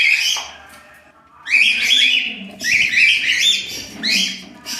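Baby lutino cockatiel calling: a string of harsh, raspy chirping calls, one at the start and then, after a short pause, about three more in quick succession.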